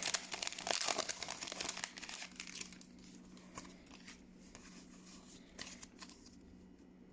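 Foil wrapper of a Pokémon TCG booster pack crinkling as it is torn open, loud for the first couple of seconds, then giving way to faint rustles and light ticks as the cards are handled.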